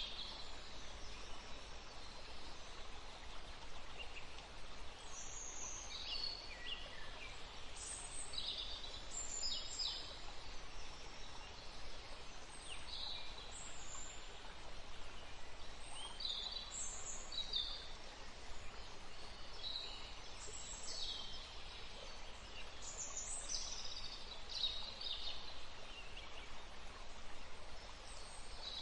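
Woodland stream flowing with a steady rushing, and small birds giving short high chirps and calls scattered throughout.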